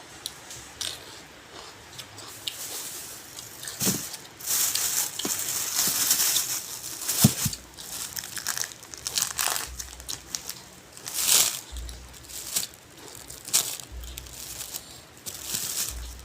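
Irregular crinkling and rustling, like plastic wrapping being handled, with a few light knocks and thuds among it.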